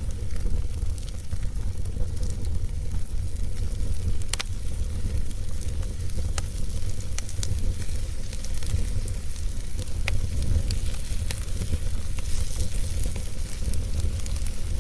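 Fire in a fireplace crackling, with scattered sharp pops over a steady low rumble.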